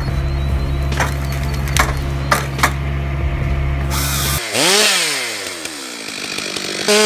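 A machine engine running steadily with several sharp cracks, then a sudden change about four seconds in to a chainsaw whose engine pitch rises and falls as it revs, followed by a hiss of the chain cutting wood.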